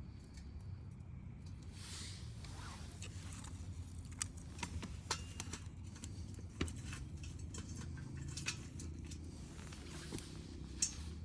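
Wood bonfire crackling: irregular sharp pops and snaps, a few of them louder, over a low steady rumble.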